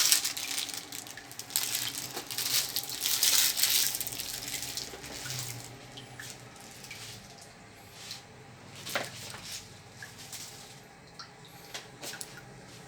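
Pot lid set back on with a clink at the start, then water boiling in the covered pot of noodles: a steady bubbling, strongest in the first few seconds, with scattered small clicks.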